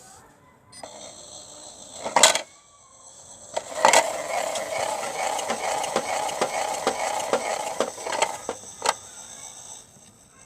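Toy washing machine running with bricks in its drum: a sharp click about two seconds in, then from about four seconds to eight seconds a loud steady whir filled with rapid rattling and clacking of the bricks, ending with another click near nine seconds.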